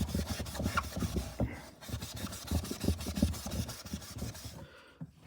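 Wet melamine-foam magic eraser scrubbed back and forth against the inside of a portable 4x4 fridge in quick, irregular strokes, rubbing off residue left by aluminium cans; the scrubbing stops near the end.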